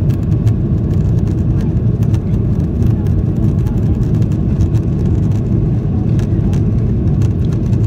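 Steady cabin rumble inside a Boeing 737-800 in its climb just after takeoff: its CFM56-7B turbofans at climb power and the rush of air past the fuselage.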